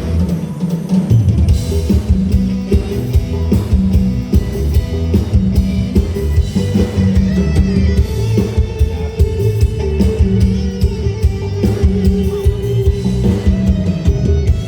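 Live luk thung band playing through a PA with a steady drum-kit beat of bass drum and snare under bass and guitar.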